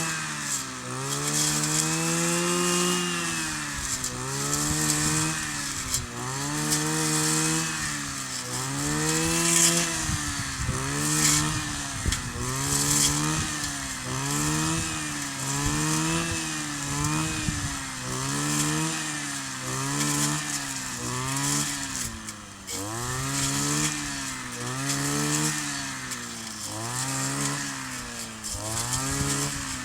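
Kioritz 260 brush cutter's small two-stroke engine running, its pitch rising and falling over and over, about every second and a half.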